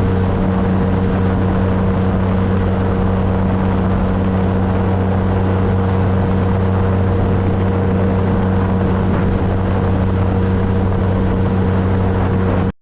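2013 Triumph Trophy SE's 1215 cc inline-triple engine running at a steady cruising speed, with wind and road noise over it. The sound cuts off abruptly near the end.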